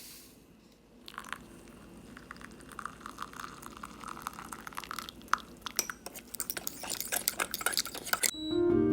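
A run of light clicks and clinks of tableware being handled, growing quicker and denser toward the end. Plucked harp and piano music comes in shortly before the end.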